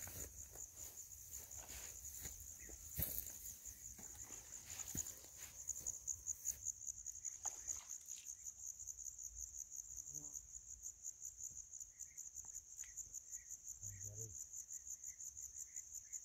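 Crickets chirping in a steady, high-pitched, rapidly pulsing trill, with a second, higher trill joining about six seconds in. Two short, low, pulsed calls sound about ten and fourteen seconds in.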